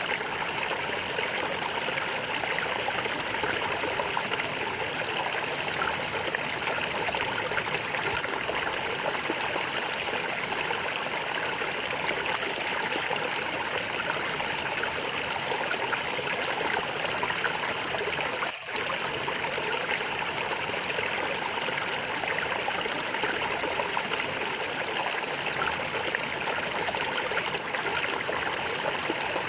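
Flowing water gurgling steadily, an even rushing sound with no pauses. There is one momentary dip about two-thirds of the way through.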